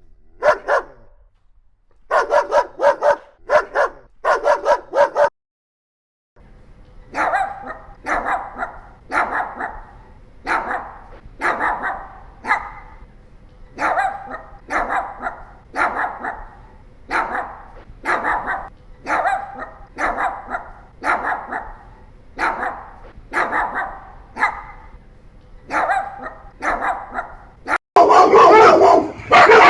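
Dogs barking. A few quick runs of barks come first, then a short silence; then barking comes steadily, about one bark a second over a low background hum. Near the end come louder, denser barks.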